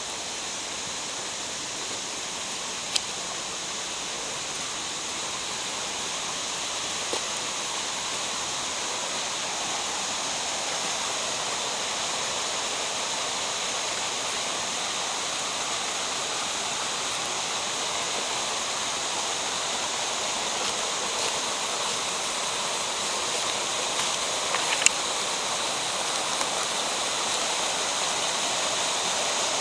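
Steady rushing of water in a mountain gorge stream, slowly growing louder, with a couple of brief sharp clicks, one about three seconds in and one near the end.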